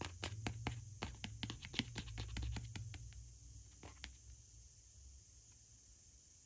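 A quick run of sharp clicks and taps, with a low handling rumble, from an object or packaging being handled. It stops about three seconds in, apart from one more click about a second later.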